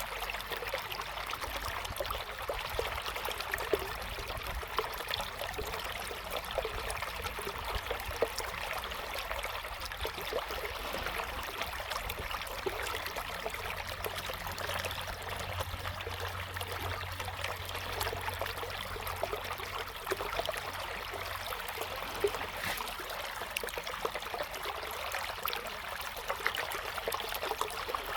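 River water flowing steadily over stones, a continuous babble with many small splashes and gurgles. A low rumble underneath grows a little stronger for several seconds past the middle.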